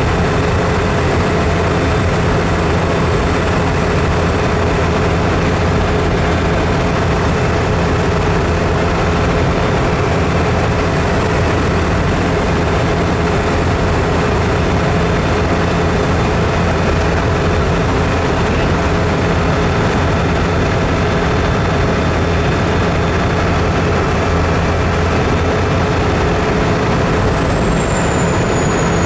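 A vehicle running at a steady speed: a constant low engine and road drone with a thin high whine held over it, which drifts up slightly and then falls back near the end.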